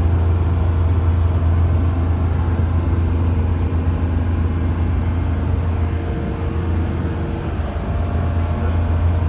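Motorboat engine running steadily at cruise throttle: a strong, even low hum with a rushing noise above it, easing slightly a little past the middle.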